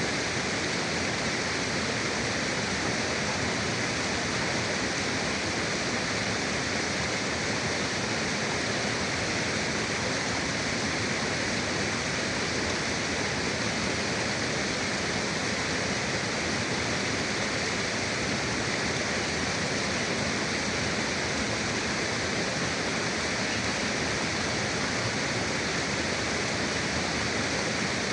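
A river's flowing water rushing steadily, an even hiss with no changes or separate events.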